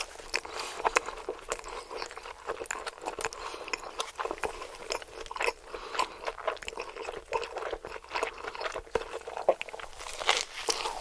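Close-miked eating: a steady run of crunching and chewing made up of many short, sharp clicks.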